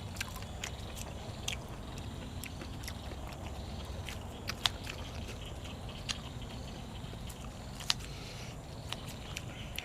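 Close-up eating sounds of someone chewing cuttlefish and fresh vegetables: irregular sharp crunches and clicks, two of them louder, over a steady low background rumble.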